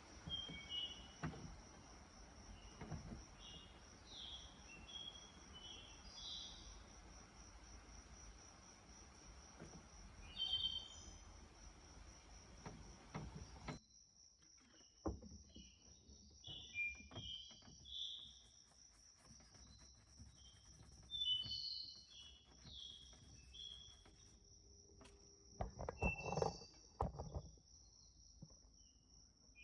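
Faint outdoor ambience: a steady, high, finely pulsed insect trill with scattered short bird chirps over it. There are a few louder knocks and rustles near the end.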